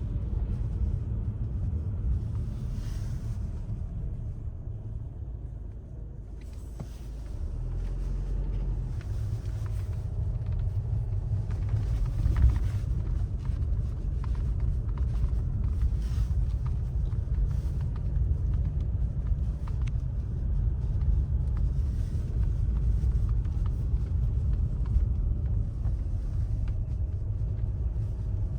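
Steady low vehicle rumble, dipping briefly about five seconds in, with faint hiss coming and going above it.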